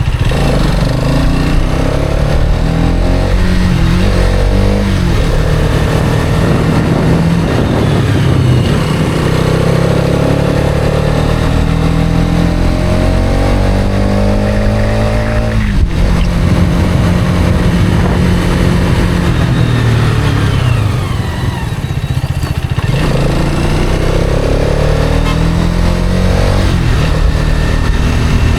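Hero Karizma XMR's single-cylinder engine, heard while riding, accelerating through the gears: its pitch climbs steadily for several seconds, drops sharply about halfway through at a gear change, eases off briefly, then climbs again near the end.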